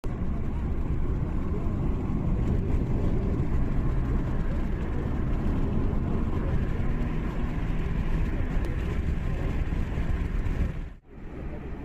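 Steady low rumble of a car moving along a road. It cuts out briefly near the end, then comes back quieter.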